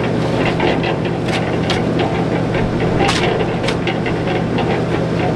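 Concrete mixer running with a steady engine hum, with irregular knocks and scrapes of wet cement mix tumbling in the drum.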